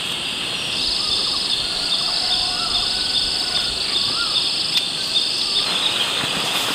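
Insects chirring in a steady high-pitched chorus, with a second, pulsing insect call joining about a second in and stopping near six seconds. A few faint wavering whistled notes sound underneath.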